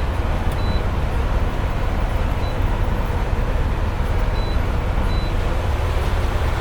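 Semi-truck cab while driving: a steady low engine and road drone.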